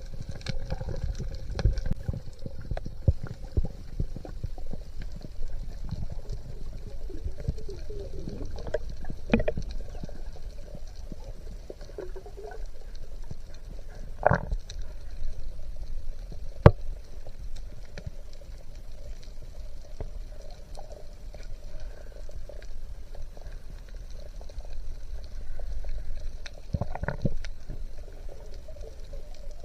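Underwater sound picked up through a camera housing: a low rumble of moving water with scattered small clicks and crackles, and a few sharper clicks or knocks, the loudest about two thirds of the way through.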